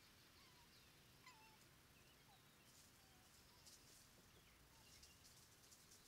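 Faint, scattered bird calls: short whistled notes, some rising or falling, over near-quiet woodland background. From about halfway through there is also light scratchy rustling.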